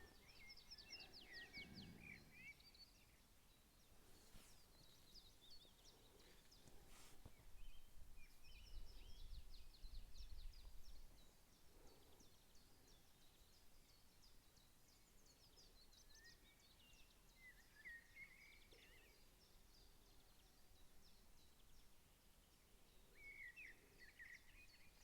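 Faint birdsong: small birds chirping and trilling in high, quick phrases throughout, with a low rumble for a few seconds in the middle.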